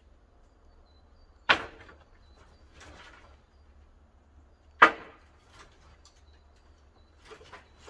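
Pine firewood knocking and clattering as the wood-fired kiln is stoked: two sharp wooden knocks about three seconds apart, with fainter clunks between and near the end.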